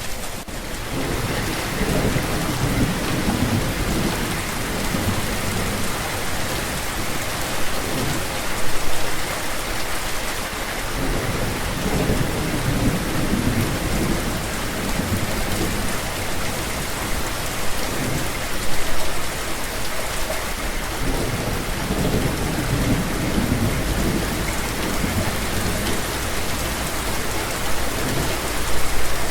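Steady rain falling, with low rolling rumbles of thunder swelling up several times.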